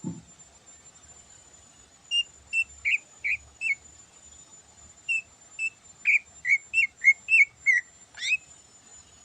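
Cucak ijo (green leafbird) singing: two runs of short, clear whistled notes, about five and then about eleven in quick succession, ending in a single fast upward-sweeping note.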